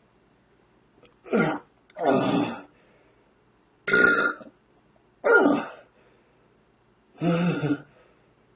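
A man retching and heaving out loud, five separate gagging heaves about a second and a half apart, each dropping in pitch: vomiting brought on by syrup of ipecac.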